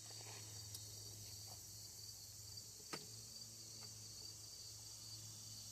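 Quiet background of a steady low hum and a steady high hiss, with two small sharp clicks from handling parts, the louder about three seconds in.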